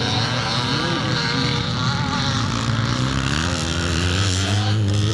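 Classic motocross bikes racing round the circuit, several engines revving up and down in pitch together, one engine note growing stronger near the end.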